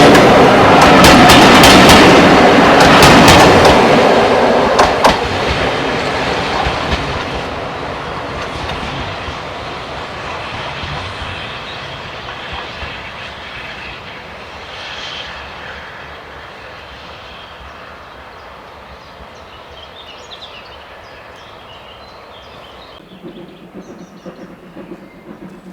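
A steam-hauled train passing close by, its wheels clicking sharply over the rail joints. It then fades steadily into the distance as it runs away. Near the end a different low, steady hum comes in.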